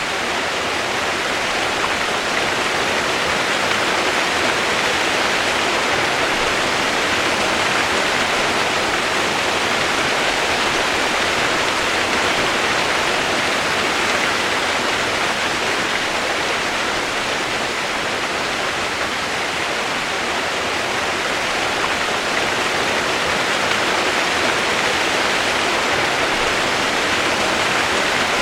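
Steady rain-sound white noise: an even, unbroken hiss with no separate drops, thunder or changes.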